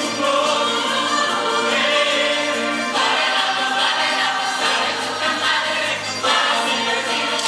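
High school show choir singing in harmony: held chords, with the voices moving to a new chord every second or two.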